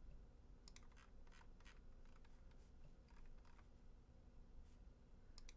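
Near silence: room tone with a faint steady hum and a few scattered faint clicks from computer mouse and keyboard use.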